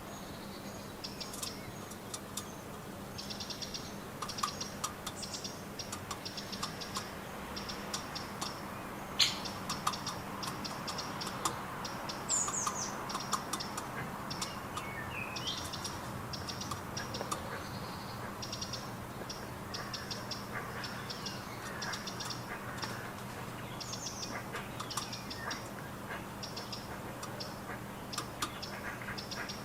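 Garden birds calling and chirping, with many short bursts of rapid high ticking repeating throughout and a few sweeping calls. A faint steady low hum runs underneath.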